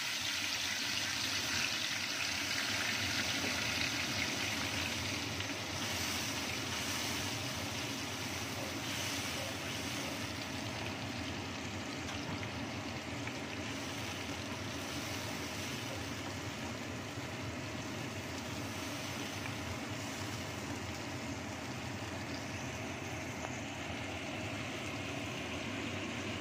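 Ground chili spice paste frying in hot oil in a wok: a steady sizzle, a little louder in the first few seconds after the paste goes in, while a wooden spatula stirs it.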